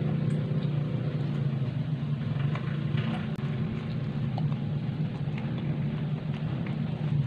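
A person chewing a fried vegetable fritter (bakwan) with the mouth working, giving scattered small clicks, over a steady low motor drone that is the loudest thing throughout.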